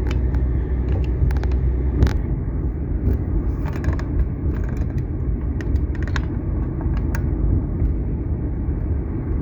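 Steady low rumble of a car driving, road and engine noise, with a few faint clicks.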